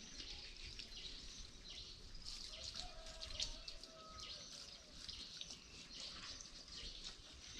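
Faint outdoor background with scattered short, high bird chirps at irregular intervals.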